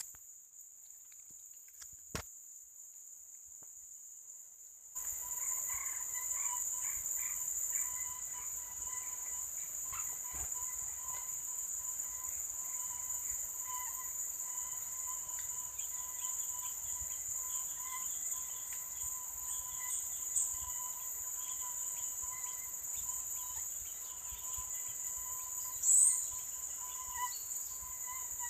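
Insect chorus: a steady, high-pitched drone of crickets or cicadas. About five seconds in, a louder layer of natural ambience joins it, with faint repeated chirps, and near the end there is a short, loud rising call.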